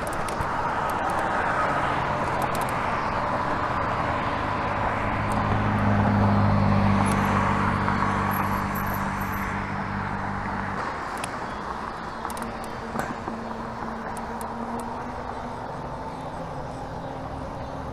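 Bicycle riding noise: wind over the microphone and tyre rumble, with a low steady hum that swells about five seconds in and cuts off suddenly near the eleven-second mark.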